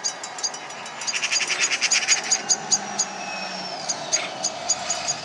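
Birds calling in rapid, repeated sharp chirps, about four a second, with a thin falling whistle about three seconds in: mobbing calls of birds harassing a cat.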